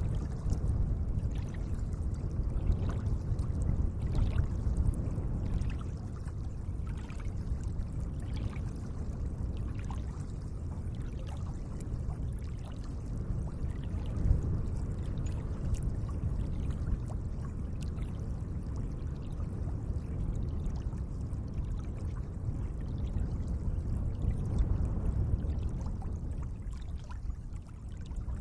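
Gentle lake water sloshing and lapping in a steady low wash, with small light splashes scattered throughout.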